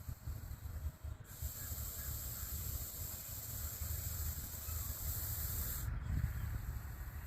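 Russell's viper hissing defensively, a sign the snake feels threatened. The hiss is a long, steady, high exhalation lasting several seconds, with brief breaks about a second in and near six seconds, over a low rumble.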